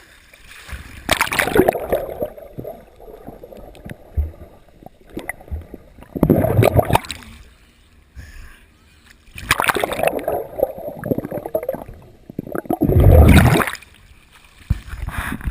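Seawater splashing and churning around a GoPro Hero2 in four loud surges, as waves and the swimmer's strokes wash over the camera, with quieter sloshing between them.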